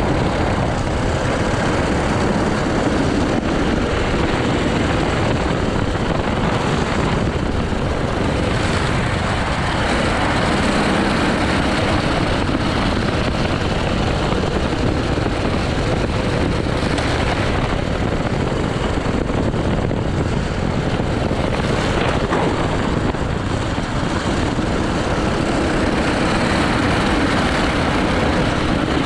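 80cc racing kart engine running continuously at speed during a lap, at steady loudness with no breaks.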